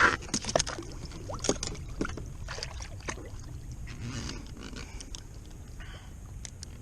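Scattered clicks, taps and scrapes of a fish and fishing gear being handled on a jet ski, over a steady low rumble of wind and water.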